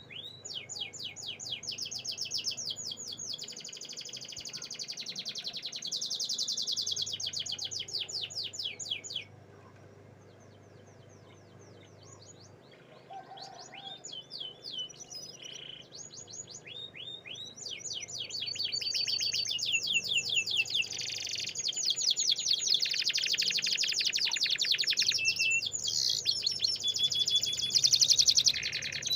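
Canary singing in long, rapid trills of repeated sweeping notes. It breaks off for about three seconds a third of the way in, then starts again and grows louder toward the end.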